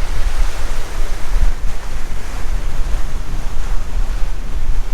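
Wind gusting on the microphone with a heavy low rumble, over a steady wash of lake waves.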